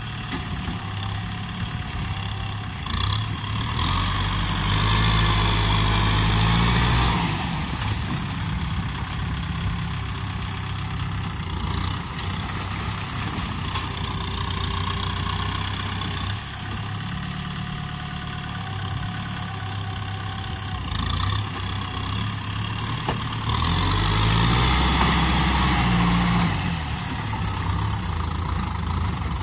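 Kubota M6040SU tractor's diesel engine running. The revs rise and the engine gets louder for a few seconds twice, about four seconds in and again near the end, then drop back to a lower steady run.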